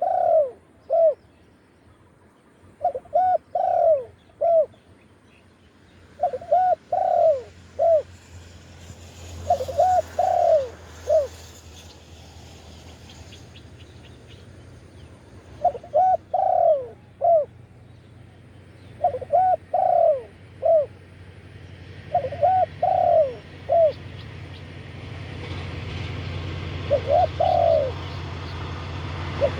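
Spotted dove cooing in short phrases of three or four coos, a phrase every three seconds or so, with a pause of several seconds midway. A low steady rumble builds up behind it in the second half.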